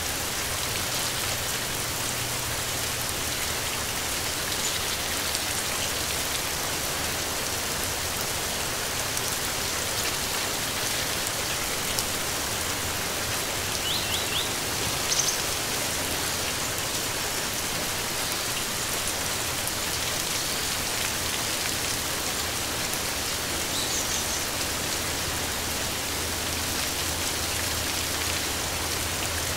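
Steady rain falling, an even hiss of drops on surfaces. A few faint, brief bird chirps come through about halfway and again later.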